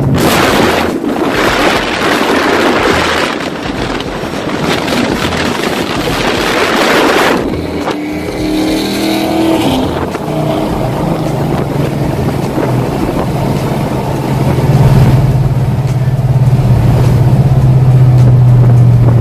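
Loud car engine noise: a harsh rushing sound for the first seven seconds or so, then a steady deep drone held at one pitch from about ten seconds in.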